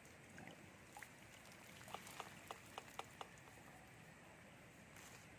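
Faint light rain: a soft steady hiss, with a quick run of about six sharp taps of drops about two to three seconds in.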